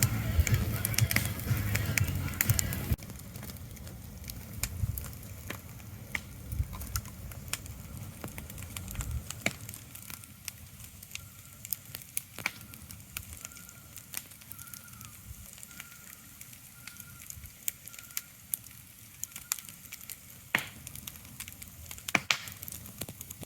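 Ambience of irregular crackles and sharp clicks, fuller and louder for about the first three seconds, then quieter with scattered clicks. A faint, thin high tone comes and goes in the middle.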